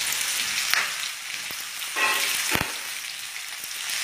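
Vegetables sizzling and crackling in very hot mustard oil with whole five-spice and green chilies. Two knocks sound against the pan, the louder one about two and a half seconds in.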